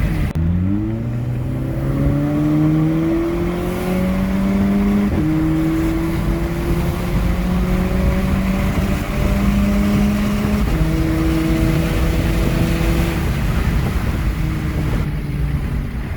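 Turbocharged Volkswagen engine accelerating through the gears on a test drive. Its pitch climbs, drops sharply at an upshift about five seconds in and again near eleven seconds, then holds steady. The cylinder that had been misfiring now has a new spark plug.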